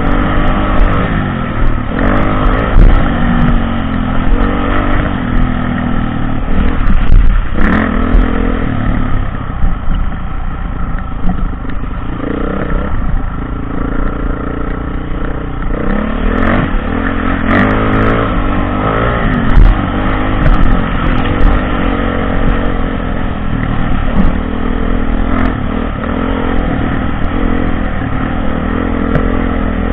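Dirt bike engine ridden off-road, its pitch rising and falling with repeated throttle changes. Sharp knocks and clatter come through now and then.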